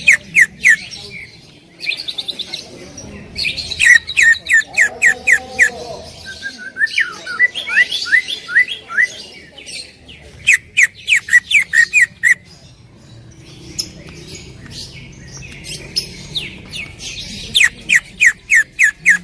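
Green leafbird (cucak ijo) singing loudly in rapid-fire runs of sharp, quick notes, about ten a second. The runs come in several bursts with short pauses between them.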